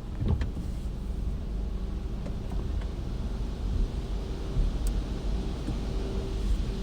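Steady low rumble of a car, with a few light clicks near the start and a faint steady hum that comes in after about four seconds.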